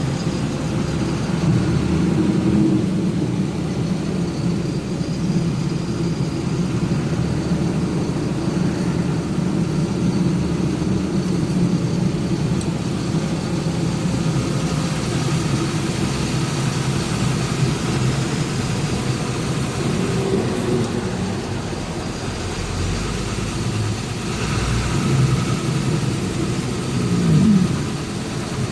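Truck engine running steadily while driving, mixed with road noise. A short rising tone near the end.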